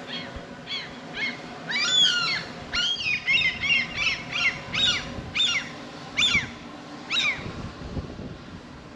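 A seabird calling loudly: a series of about a dozen harsh, pitched calls, each falling in pitch. The calls come in quick succession and stop a little after seven seconds in. A faint steady low hum runs underneath.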